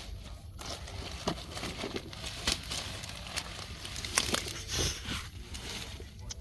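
Rustling and crackling noise with several sharp clicks and snaps scattered through it.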